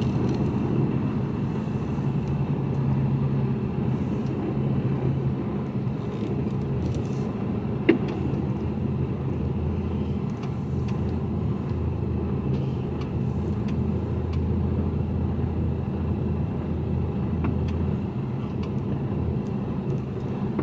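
Mercedes-Benz Actros truck's diesel engine running at low speed, heard from inside the cab while the lorry is manoeuvred slowly into a parking space; the engine note drops lower partway through. A single sharp click about eight seconds in.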